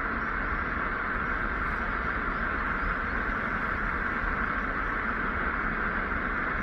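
Steady hiss of an airband radio between air traffic control transmissions, an even rushing noise with no tones or breaks.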